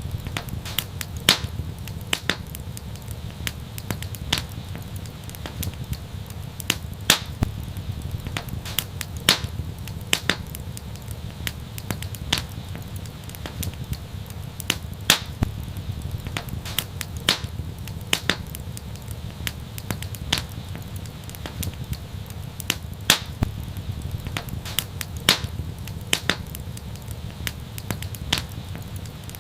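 Wood fire crackling in an outdoor fireplace: irregular sharp pops and snaps, a few each second with an occasional louder one, over a steady low rumble.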